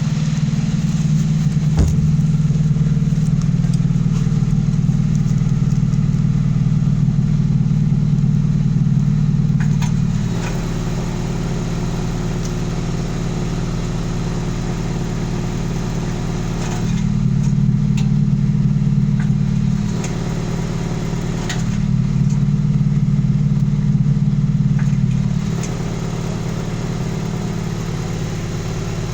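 Mazda 6 GH engine idling through its exhaust, with a steady pitch and no revving. The exhaust note switches three times between a louder, deeper sound and a quieter one, as the electronic exhaust cutout is opened and closed.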